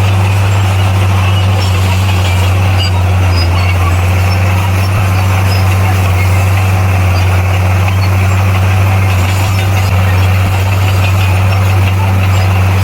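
Bulldozer's diesel engine running at a steady speed, a constant low drone with a noisy clatter above it.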